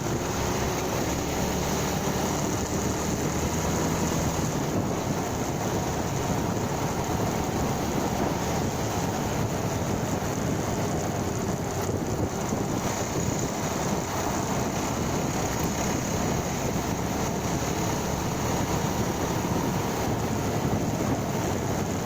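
Motorcycle engine running steadily at cruising speed, mixed with wind and road noise on the microphone while riding.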